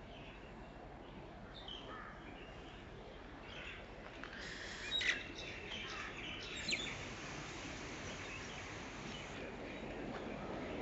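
Birds chirping over a steady low background hiss, with a few louder sharp calls about halfway through.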